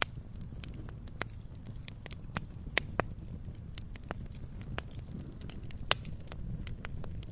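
Campfire burning: wood crackling with irregular sharp pops and snaps over a low steady rumble of flames, the loudest pop coming about six seconds in.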